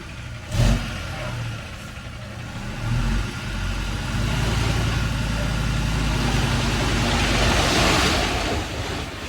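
Vehicle engine running, then pulling harder from about three and a half seconds in and holding. A hiss builds alongside it and peaks near the end, and there is a single knock about half a second in.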